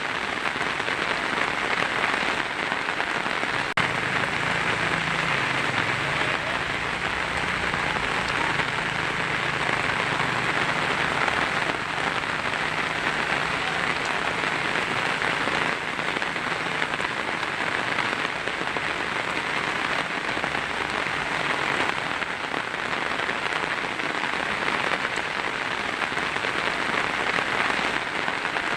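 Heavy rain drumming steadily on a tin roof, an even dense patter with no breaks.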